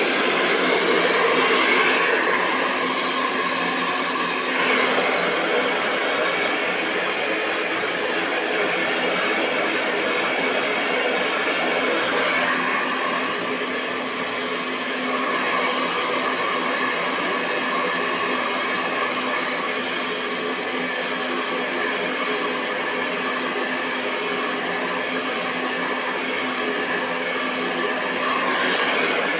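Electric hair dryer running continuously: a steady rush of blown air over a low motor hum, its tone shifting slightly a few times.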